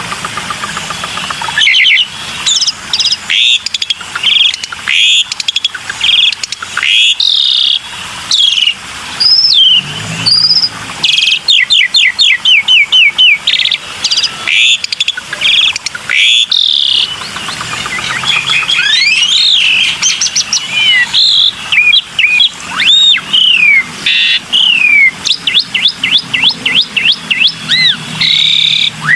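Black-winged starling (jalak putih) singing continuously: a long, varied song of loud whistles, slurred rising and falling notes and fast runs of repeated notes.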